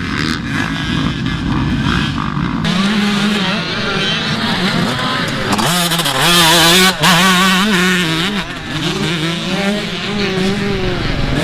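Motocross dirt bike engines revving hard and changing pitch as they accelerate, shift and back off.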